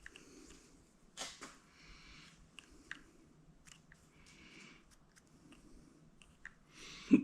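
Small clicks and light scraping from hand tools and parts being handled. There is one sharp knock near the end.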